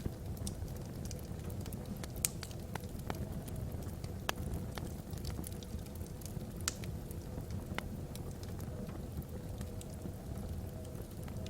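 Wood fire burning in a fireplace: logs crackling with scattered small snaps and a few louder pops over a steady low rumble of the flames.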